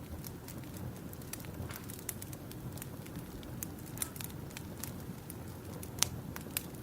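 Campfire crackling: wood snapping and popping in irregular sharp clicks over a low steady rumble of the flames, with one louder pop about six seconds in.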